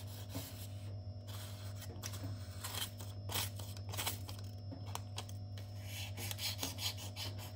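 A steel knife edge scraping and crackling in short, irregular strokes as it is deliberately dulled before sharpening, over a low steady hum.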